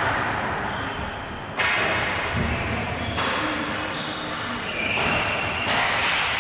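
League game play in a large echoing hall: a sharp knock at the start and a sudden rise in noise about one and a half seconds in, over steady hall noise with a few short high squeaks.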